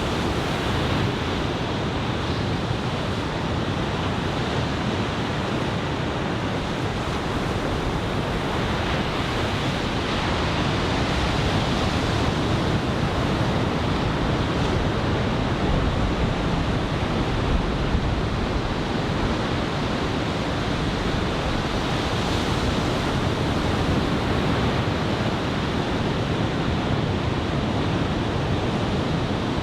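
Ocean surf from a typhoon swell: a steady, continuous wash of breaking waves with no single crash standing out.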